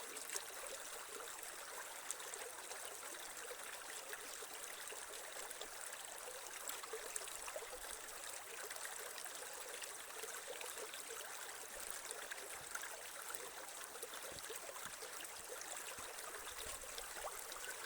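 Creek water running over stones, a steady trickling babble with small splashes.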